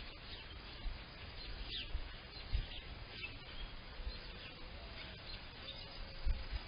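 Several songbirds chirping and singing, with many short high chirps and trills overlapping. Brief low rumbles come and go underneath, the loudest about two and a half seconds in and near the end.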